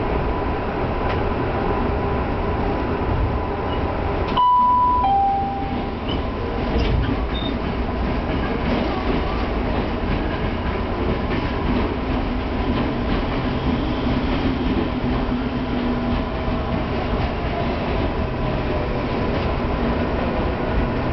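Tokyu Toyoko Line train running, heard from inside the front car: a steady rumble of wheels on rails with a faint whine whose pitch slowly glides up and down. About four seconds in, a short falling two-note electronic tone sounds, the loudest moment.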